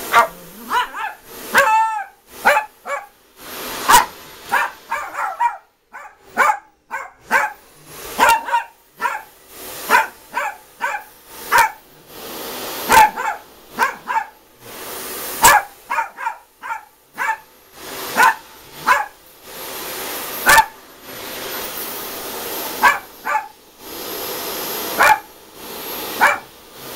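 Miniature pinscher barking repeatedly at a vacuum cleaner, short sharp barks often one to two a second with brief pauses, picking a fight with the machine. The vacuum cleaner's motor runs underneath in stretches, stopping and starting.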